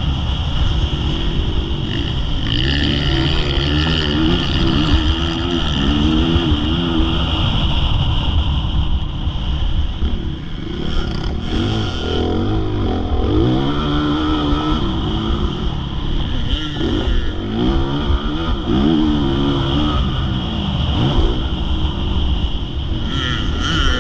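Motocross motorcycle engine revving hard and easing off again and again, its pitch climbing and dropping every few seconds as it rides round a dirt track.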